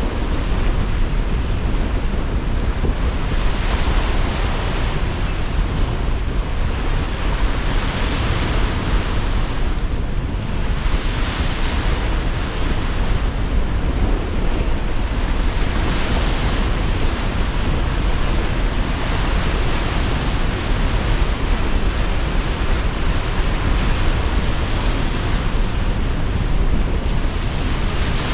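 Sea surf washing ashore under strong, gusting wind, with wind rumbling on the microphone. The waves rise and fall in swells every few seconds over a constant roar of noise.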